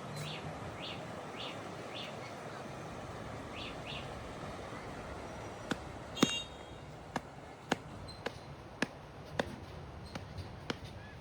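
A small bird chirping a short call over and over, then a run of sharp knocks or clicks about every half second, the loudest about six seconds in, over steady outdoor background noise.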